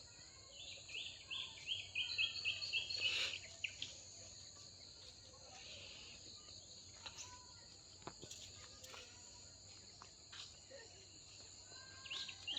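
Steady trilling of insects under a rural dawn chorus, with a bird calling in a quick run of repeated notes about a second in and again near the end, and a few faint clicks between.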